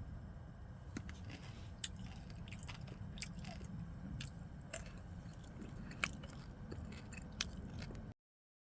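A person chewing and crunching snack nuts, with scattered sharp crunches over a low steady rumble; the sound cuts off abruptly near the end.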